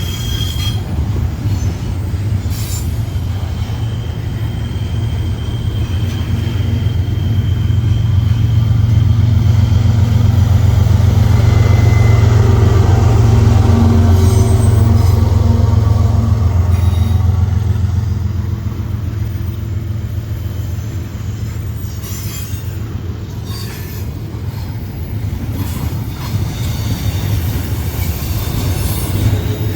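CSX diesel freight train passing, a loud deep rumble that builds to its loudest about halfway through and then eases off, with a thin high wheel squeal near the start and again near the end.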